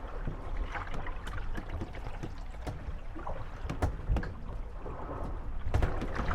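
Moored wooden gondolas rocking on the waves, knocking and creaking against each other at irregular moments, over steady water lapping and sloshing around the hulls.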